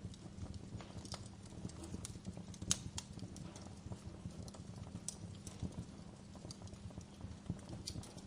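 Wood fire burning in a fireplace, crackling with irregular pops and snaps over a low steady rumble of the flames; the loudest snap comes about a third of the way in.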